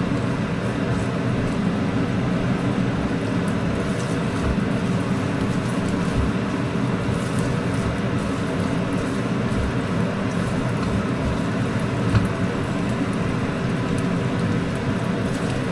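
Kitchen range hood fan running steadily with a constant loud rushing hum, over sausage sizzling in a hot wok. There is a single small knock about twelve seconds in.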